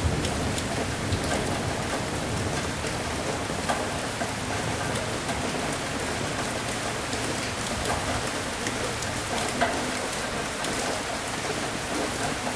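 Steady rain falling, an even hiss with scattered sharper ticks from individual drops.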